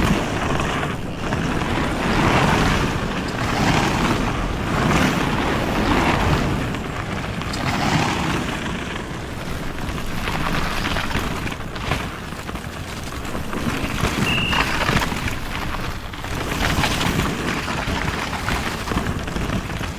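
Wind buffeting the microphone: a loud rushing noise that swells and fades every second or two. A brief high beep sounds about fourteen seconds in.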